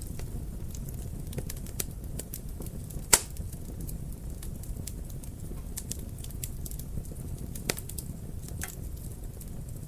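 Wood fire in a fireplace crackling over a low steady rumble of flames, with a quick run of small snaps and one loud pop about three seconds in and another near the end.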